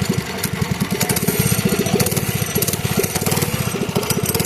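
Mini bike's small engine running at a steady fast putter.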